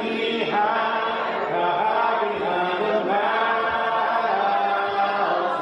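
Voices singing a slow hymn a cappella, holding long drawn-out notes that slide between pitches.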